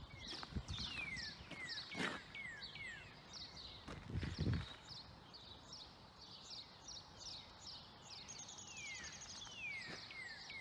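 Songbirds chirping, a run of short high chirps and down-slurred whistles repeating over and over, with a brief buzzy trill near the end. A couple of low thumps sound about two and four seconds in.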